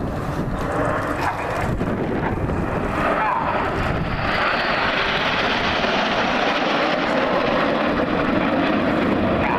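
Jet engine noise from a formation of BAE Hawk T1 jets diving past, a loud steady rush that swells and grows brighter about four seconds in as the aircraft close in.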